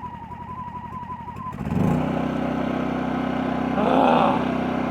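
Champion 100900 dual fuel inverter generator's small engine catching and starting about two seconds in. It quickly rises in pitch and then settles into a steady hum.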